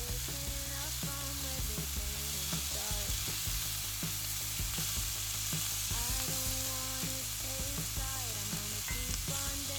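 Food frying on a hot pan or grill, a steady sizzle.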